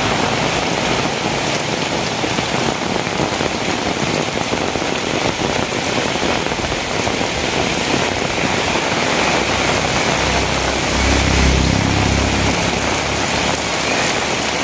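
Heavy rain falling steadily, a dense hiss of drops hitting surfaces. From about ten seconds in, a low rumble swells for a couple of seconds and then fades under the rain.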